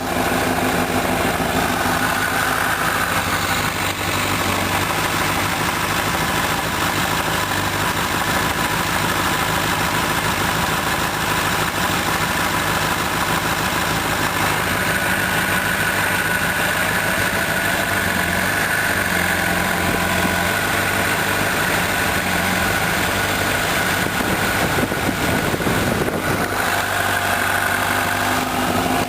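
2006 Honda CBR1000RR inline-four engine running at standstill, warm, with the clutch eased out to the friction point. A loud rapid 'tak-tak-tak' knock comes in about five seconds in and keeps time with the revs. The knock appears only when the engine is hot and the clutch is partly engaged, and its cause is not yet found.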